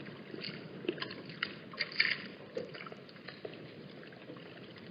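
Steady wind noise with scattered short, irregular splashes and clicks of water.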